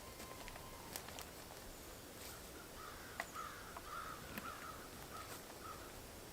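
Faint bird calls: a run of about eight short notes, roughly three a second, starting about halfway through, with scattered sharp clicks.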